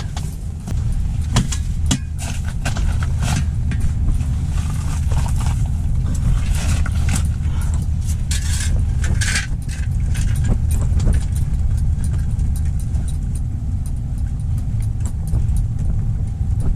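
Strong wind buffeting the microphone: a steady low rumble. Scattered clicks and light rattles sit on top of it, heaviest in the first half and again about eight to nine seconds in.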